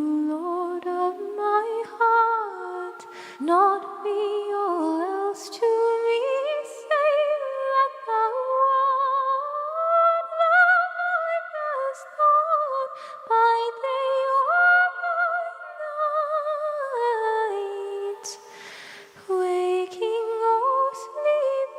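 Layered a cappella voices singing wordlessly in harmony. Several voices hold sustained notes with vibrato and move together from chord to chord. A short breath-like noise comes near the end.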